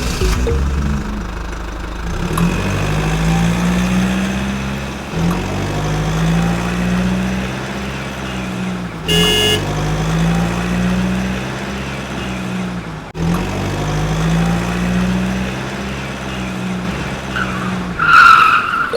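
A tractor engine running, its pitch rising and easing back in repeated swells every three to four seconds. A short ringing tone sounds about nine seconds in, and a brief louder, higher sound comes near the end.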